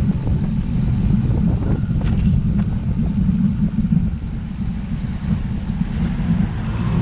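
Steady, loud low rumble of wind buffeting an action camera's microphone, mixed with road noise, with a few faint clicks about two seconds in.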